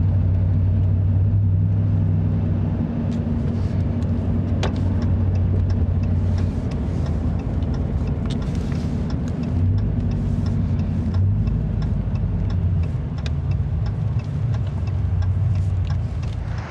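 Car driving, heard from inside the cabin: a steady low engine and road drone with scattered faint ticks.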